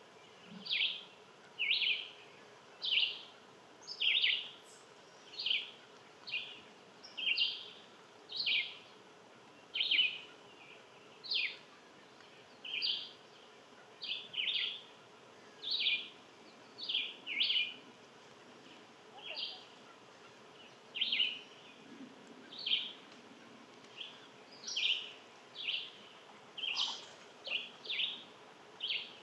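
A short, sharp chip call repeated about once a second, sometimes doubled, over a faint steady background hum. The steady rhythm is typical of an alarm or contact call from a small songbird or a chipmunk.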